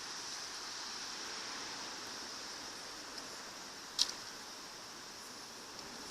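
Steady faint hiss of outdoor background noise, with one sharp click about four seconds in.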